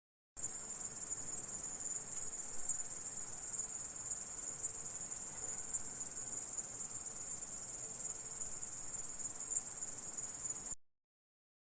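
Grasshopper stridulating: a continuous high-pitched insect trill, starting about half a second in and cutting off abruptly near the end.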